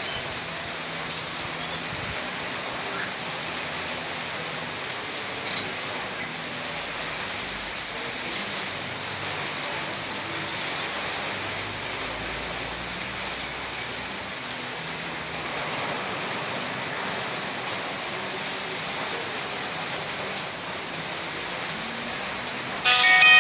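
Heavy rain falling steadily, an even hiss with scattered drop impacts. Music cuts in suddenly and loudly just before the end.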